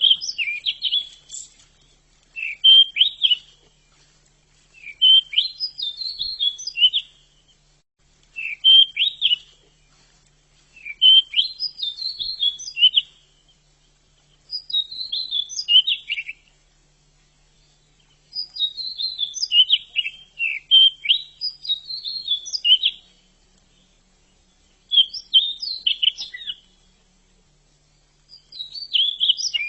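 Pied bushchat (decu) singing: short, high twittering song phrases, each about a second and a half to two seconds long, repeated every three to four seconds with short pauses between.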